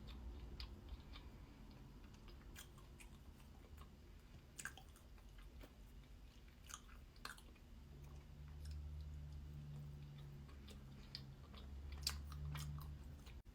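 Close-miked chewing of soft, dense angel cake sponge, with quiet wet mouth clicks and smacks scattered through.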